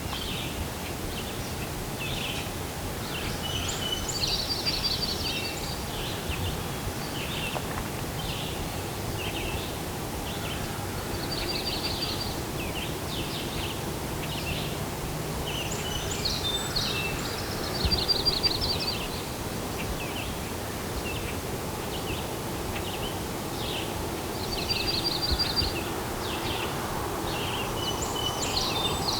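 Several songbirds singing: many short chirps and a rapid trill that recurs four times, over a steady outdoor background hiss.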